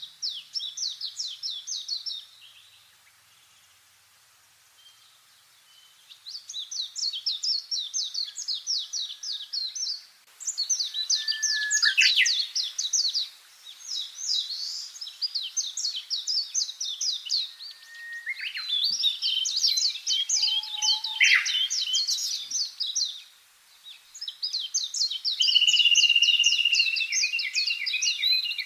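Songbirds singing rapid, high trilling songs in bouts of a few seconds, several at once at times, with a quiet gap a few seconds in and a longer held whistled note near the end.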